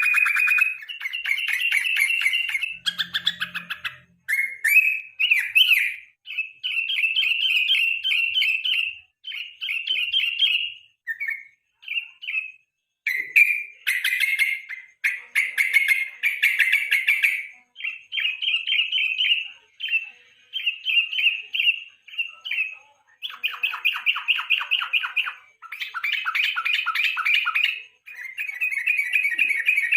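Trucuk bulbul singing a long run of loud, fast chattering song phrases, one after another, with only short breaks between them.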